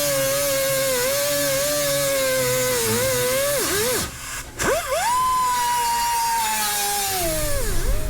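Cutoff wheel whining as it cuts, its pitch sagging and wavering under load. It stops about four seconds in, restarts and spins up to a higher whine, then drops in pitch again near the end.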